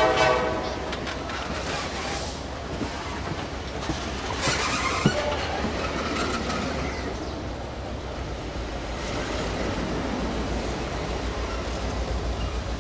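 Passenger coaches rolling past close by: a steady rumble of steel wheels on the rails with scattered clicks and clunks, the sharpest about five seconds in. The tail of a brief pitched sound fades out right at the start.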